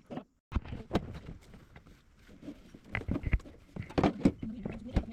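A series of irregular knocks and clicks, after a brief gap just after the start, typical of tools and metal parts being handled during heavy truck repair work.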